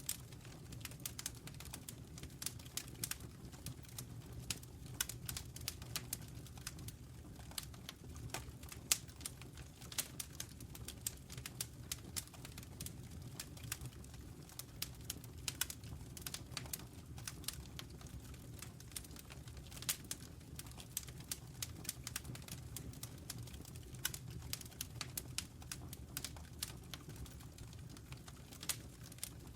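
Wood fire burning in a fireplace: dense, irregular crackling and popping, several sharp pops a second, over a low steady rumble of the flames.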